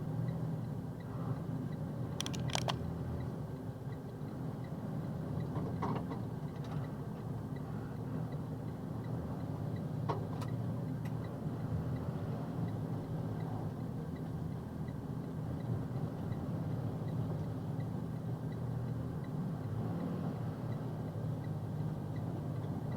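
Steady engine and road noise inside a moving box truck's cab, with a few brief clicks or rattles.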